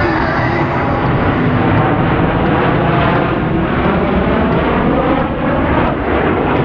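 Jet roar of Blue Angels F/A-18 Super Hornets flying past, loud and steady, with a tone that sweeps up and down as they go by.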